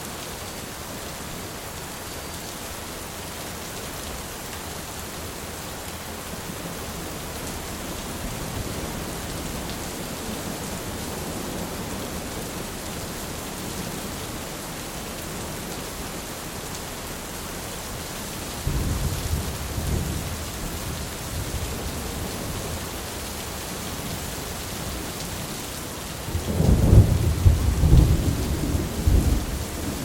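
Steady heavy rain with thunder rumbling: a low rumble swells about two-thirds of the way through, and a louder, longer roll of thunder comes near the end.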